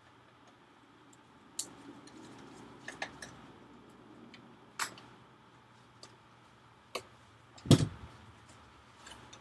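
Scattered small clicks and ticks of a screwdriver and tiny screws being worked loose from a computer's display cable connector, with a louder knock a little before the end.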